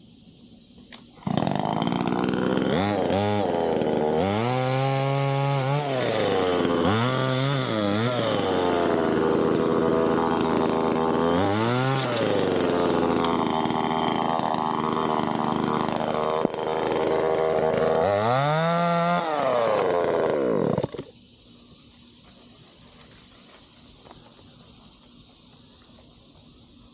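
Neotec budget two-stroke gas chainsaw running at high revs. Its pitch dips and climbs again several times as the throttle is worked, and it stops abruptly about 21 seconds in.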